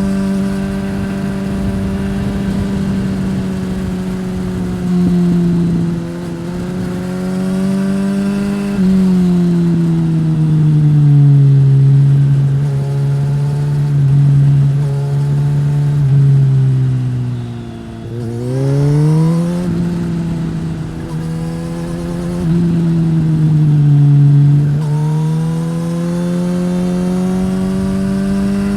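2015 Suzuki GSX-S1000's inline-four engine running through a Yoshimura R-11 slip-on exhaust under changing throttle. Its pitch sags and climbs gradually, drops lowest about 18 seconds in, then rises quickly as the bike accelerates again.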